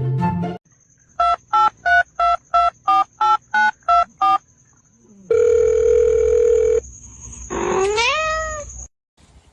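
Telephone keypad tones dialing a number, about eleven quick two-note beeps at roughly three a second, then a held telephone tone. An animal call follows near the end, rising in pitch.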